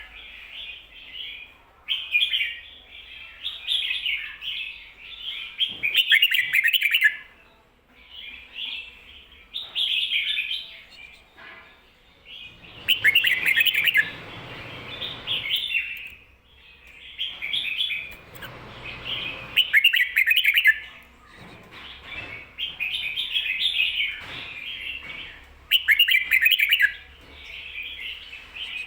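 Red-whiskered bulbul singing short, bright warbled phrases, one every second or two, in the doubled 'kho-ta-ra' song pattern. A softer rustling noise lies under the song twice in the middle.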